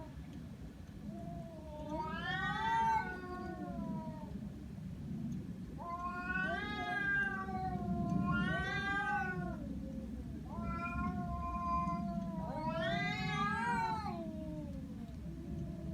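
Domestic cat's threat yowls: about five long, drawn-out wavering howls that rise and fall in pitch, one after another, with a steady low rumble beneath them. The angry warning cry of a cat threatening another animal or person.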